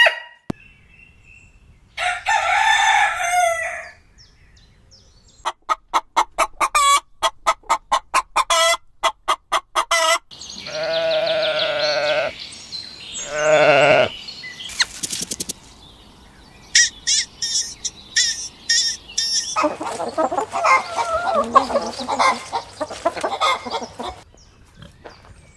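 Chickens clucking and a rooster crowing, in a string of separate calls with short gaps between: quick runs of clucks and longer drawn-out crows.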